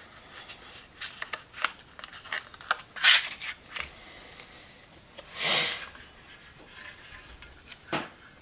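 Handling of a sticker and its paper backing: a run of small clicks and rustles, a short swish about three seconds in, and a longer rubbing swish past the middle, then a single click near the end.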